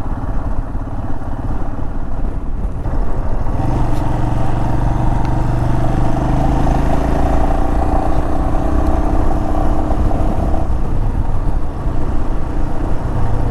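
Royal Enfield Himalayan 411's single-cylinder engine running while the bike is ridden, over low rumble. The engine note picks up about three and a half seconds in, holds steady, and eases off near the end.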